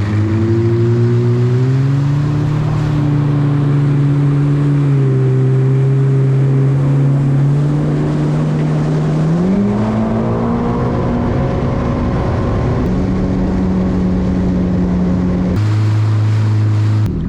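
Personal watercraft (jet ski) engine running steadily, its pitch climbing sharply about nine and a half seconds in as it speeds up, then settling; the sound changes abruptly twice near the end.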